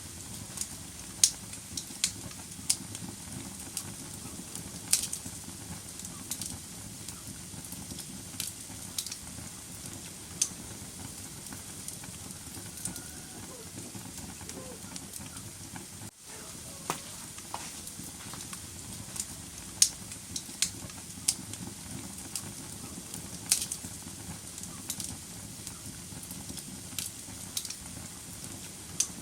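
Wood fire crackling in a fireplace: a steady low hiss with irregular sharp pops and snaps from the burning logs. The sound briefly cuts out about halfway through.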